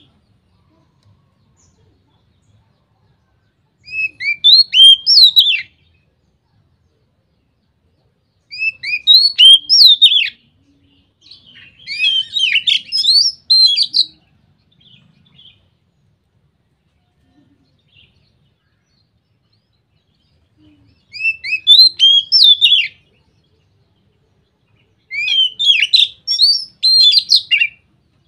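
Oriental magpie-robin (kacer) singing its loud, full 'ngeplong' song: five phrases of rapid chirping notes with quick pitch sweeps, each lasting about two seconds and separated by pauses of a few seconds.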